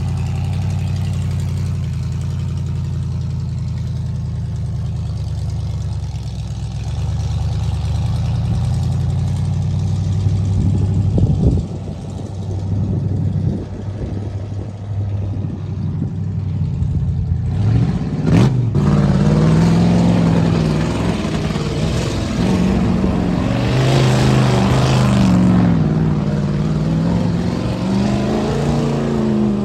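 Ford mud truck engine running at steady low revs, then, after a sudden break about two-thirds of the way through, an engine revving up and down again and again over a rushing noise.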